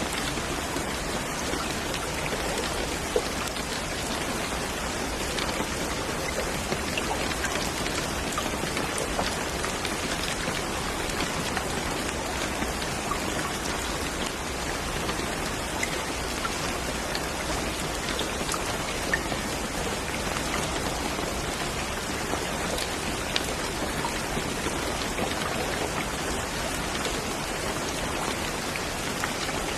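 Steady rain falling, with the close patter of individual drops landing on a surface and an occasional slightly louder single drop.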